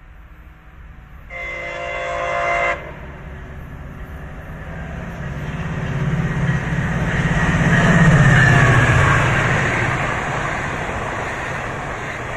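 A MARC commuter train's horn sounds one blast of about a second and a half, a chord that cuts off sharply. The diesel-hauled train then passes at high speed: its engine and wheels on the rails build to a peak about eight seconds in, then ease off as the coaches roll by.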